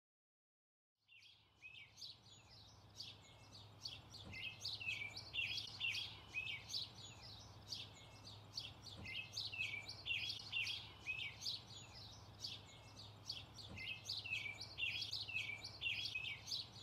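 Songbirds chirping and trilling in a busy chorus of short, repeated high phrases, over a low steady hum; it begins about a second in.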